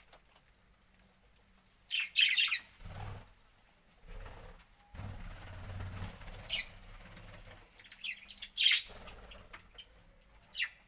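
Pet parrot giving short, high chirping calls every few seconds, with a low fluttering, wing-flapping noise between the calls in the middle.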